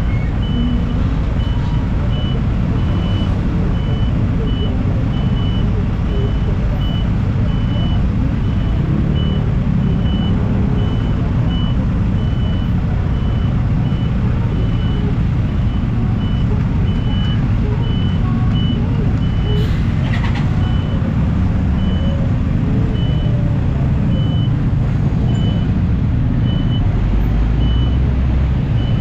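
Honda Beat carburetted scooter's single-cylinder engine running steadily on the move, with a heavy road and wind rumble. A short high beep repeats about once a second throughout.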